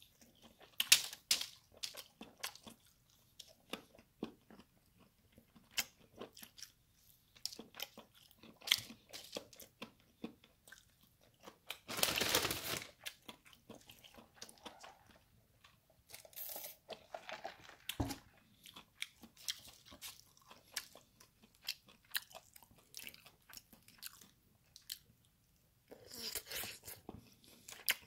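Close-up chewing of crispy fried chicken: irregular wet crunches and crackles of the fried crust between the teeth. A longer noisy sound about halfway through and a single low thump about two-thirds through interrupt it.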